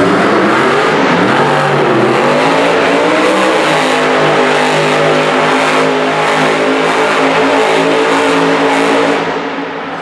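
El Toro Loco monster truck's supercharged V8 running hard, its pitch rising and falling as it revs, then holding high and steady. The sound drops off near the end.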